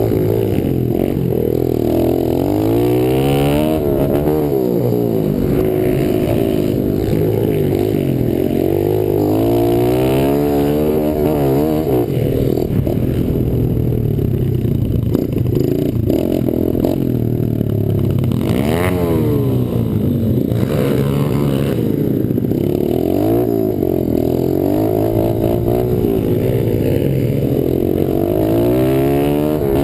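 Small pit bike engine being ridden, revving up and dropping back over and over, its pitch rising and falling every few seconds.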